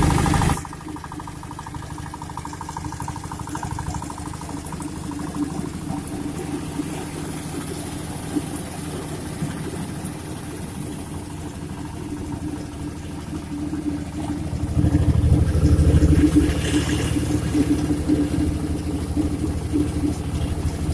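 Sago grater machine running, driven by its 8 HP diesel engine with a steady hum. It grows louder about two-thirds of the way through, then settles again.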